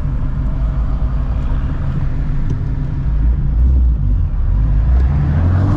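Straight-piped 5.2-litre Voodoo flat-plane-crank V8 of a 2016 Ford Mustang Shelby GT350, with long-tube headers, running at low revs under light load. Its pitch starts to rise near the end as it begins to rev up.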